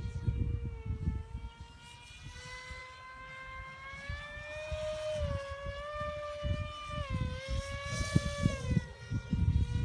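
A steady motor drone whose pitch wavers slowly up and down, with wind gusting on the microphone.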